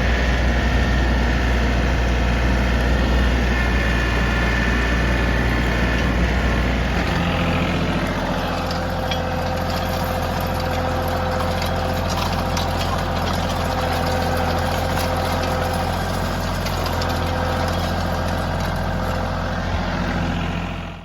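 Diesel engine of heavy equipment running steadily, its tone shifting about seven seconds in; the sound cuts off suddenly at the end.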